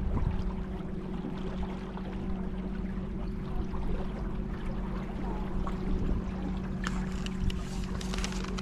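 A boat's motor humming steadily at one constant pitch over the wash of river water, with a few light clicks near the end.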